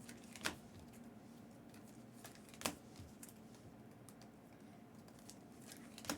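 Three sharp taps on a desk, about half a second in, near the middle and at the end, with a few fainter clicks between them, over a low steady hum.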